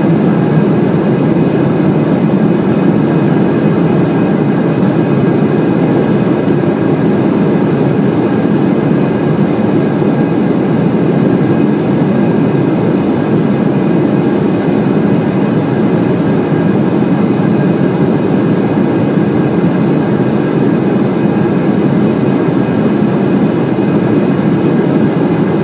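Steady engine and airflow noise inside the passenger cabin of an Embraer E190 airliner in flight, with its GE CF34 turbofans running at power. A faint steady whine sits over the broad, even rumble.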